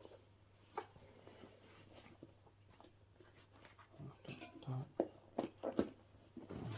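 Hands working a rubber bicycle tyre and inner tube onto a wheel rim: scattered rubbing and sharp clicks, one about a second in and a busier run in the second half.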